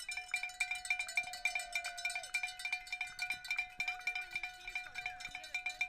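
A cowbell rung fast and evenly, about seven strikes a second, with faint voices underneath.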